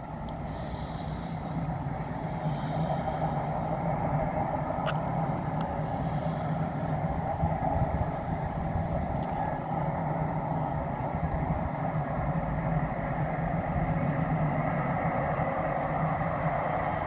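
Passenger train running through the valley at a distance: a steady rumble with a low hum that grows over the first couple of seconds and then holds.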